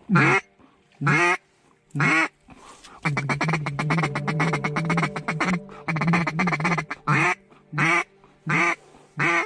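Loud duck quacks: three single quacks about a second apart, then a fast chattering run of quacks lasting about three and a half seconds, then four more quacks in quick succession.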